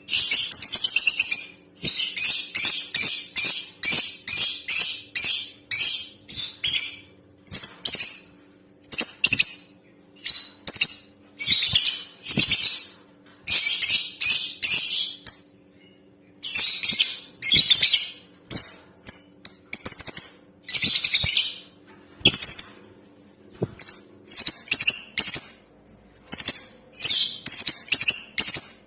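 Female lovebird chattering: shrill, rapid runs of calls in quick bursts with short pauses between them, over a faint steady low hum.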